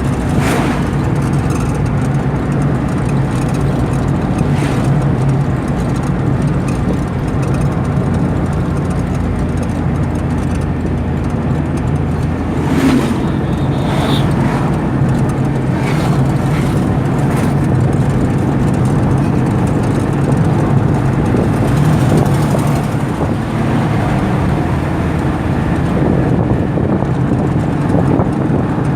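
A car driving steadily on a highway: continuous engine hum and tyre and road noise, with a few brief knocks scattered through.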